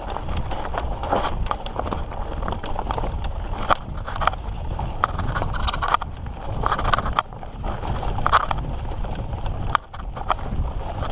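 Mountain bike ridden over rough singletrack: irregular clattering clicks and knocks from the bike rattling over rocks and roots, over a steady low rumble.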